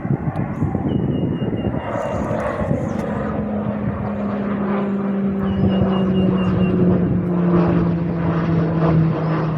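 Fixed-wing aircraft flying past, a loud, continuous engine drone whose pitch slowly falls as it goes by.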